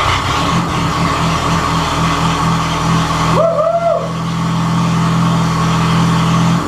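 The belt-driven four-cylinder engine of a VAZ 2105 Zhiguli runs on its newly fitted fuel-injection swap kit, just started for the first time after the conversion. It pulses unevenly for the first couple of seconds, then settles to a steady run. About halfway through, a man gives a short shout.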